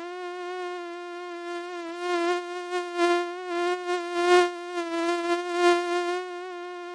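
Mosquito whining in flight: a steady high buzz that swells louder and softer several times, then cuts off suddenly near the end.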